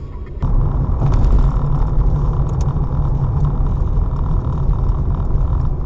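Steady rumble of a car driving, engine and road noise as picked up by a dashcam inside the car; it starts abruptly, louder, about half a second in.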